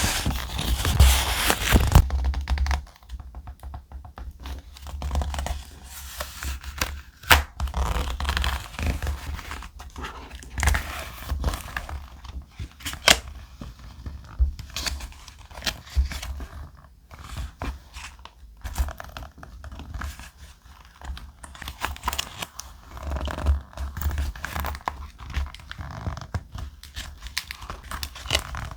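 Thick paper being handled, torn and crinkled for scrapbook journaling: irregular rustles and tearing with occasional sharp taps, loudest in the first two seconds.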